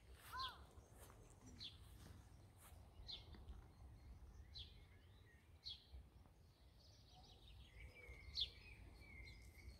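Faint outdoor ambience: short, high bird chirps repeating every second or so over a low rumble of wind.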